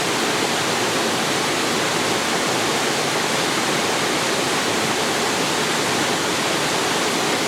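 Waterfall pouring steadily into a mountain-valley pool, a constant rushing of water.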